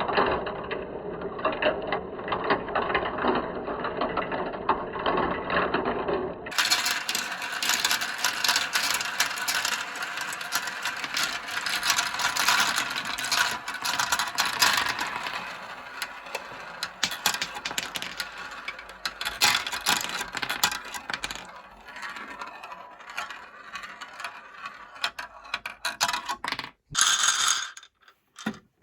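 Many marbles rolling and clattering down a marble-run track, making a dense, irregular stream of quick clicks. The sound changes character abruptly about six seconds in and drops out briefly near the end.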